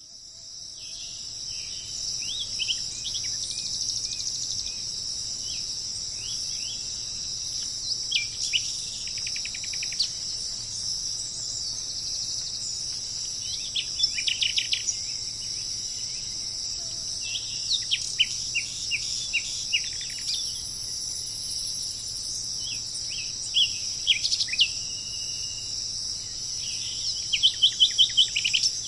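Steady high-pitched insect chorus with bird calls breaking in every few seconds: short whistled notes and quick runs of repeated chirps, the busiest run near the end. It fades in over the first two seconds.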